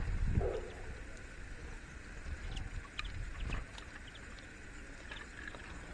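Faint short bird chirps scattered over a low outdoor rumble, with two sharp taps about three seconds in.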